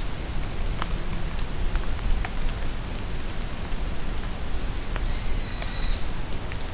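Steady rain falling in a forest, with individual drops ticking. Short, high bird chirps are scattered throughout, and a longer bird call comes about five seconds in.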